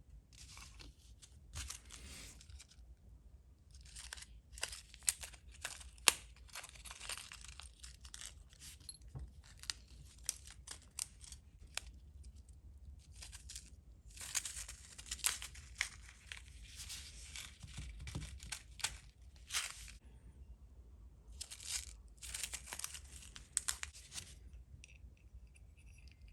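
Hands working on small parts at a bench: clumps of scratchy, crackly handling noise with many sharp little clicks, broken by short pauses.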